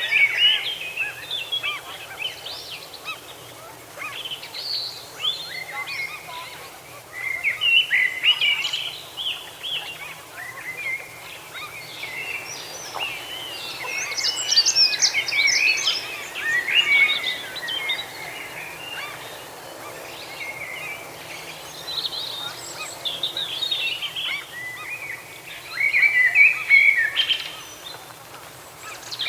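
Several songbirds singing, short chirping phrases coming one after another and overlapping.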